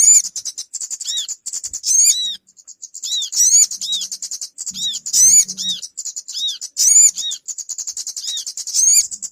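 Bird-lure recording of small birds calling, mixing sogon and kemade calls: a busy, rapid, high-pitched chattering trill with loud arching whistled notes repeating about once a second. The calls break off briefly about two and a half seconds in.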